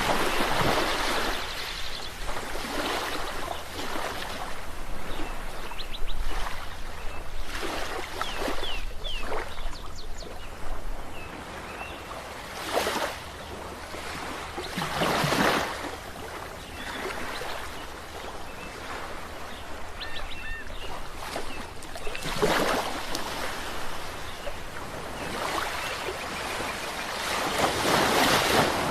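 Sea waves breaking and washing on a shore: a steady rush of surf swelling into a louder wave every few seconds, the biggest near the end. A few faint short high chirps are heard in the middle.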